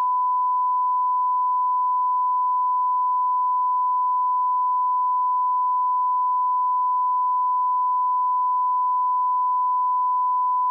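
Audio line-up test tone: a steady, unbroken pure sine beep at 1 kHz, set at -18 dB reference level.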